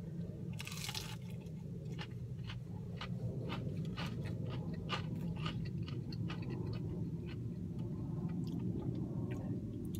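A person bites into a crispy fried breaded boneless chicken wing with a crunch about half a second in, then chews it with many small wet clicks. A steady low hum runs underneath.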